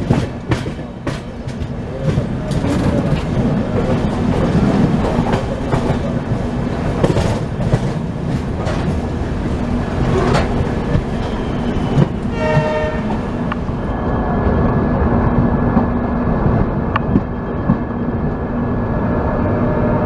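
Passenger express train running at speed, its wheels clattering over the rail joints with many sharp clicks in the first half. About twelve seconds in, the train horn sounds once for a second or so.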